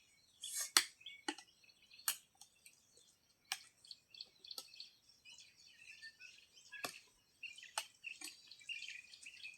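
Birds chirping, with a few sharp clicks or knocks scattered irregularly through the sound.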